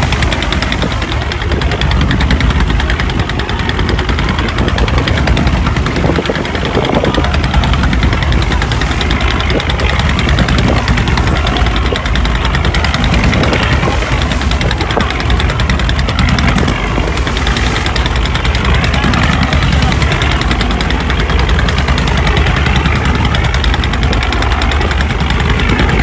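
Boat's diesel engine running steadily, with a fast, even knocking beat.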